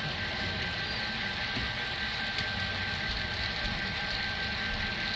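HO scale model trains running on the layout: a steady rumble with a thin constant whine.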